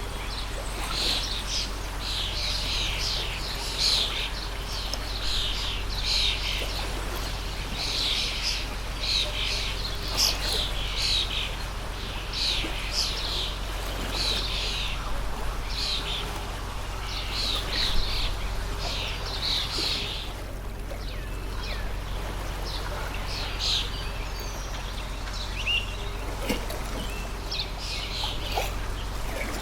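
Small birds chirping continuously in quick, high, short notes over the steady rush of a stream. The chirping lets up briefly about two-thirds of the way through.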